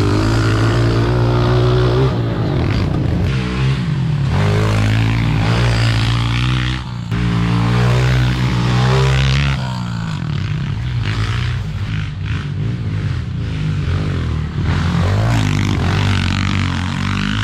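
Honda CRF125 pit bike's single-cylinder four-stroke engine being ridden hard, its revs rising and falling again and again.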